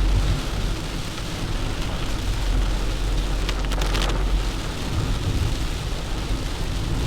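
Heavy rain pelting a moving car, Tata Tiago, over a steady low road rumble. A brief cluster of clicks comes about three and a half seconds in.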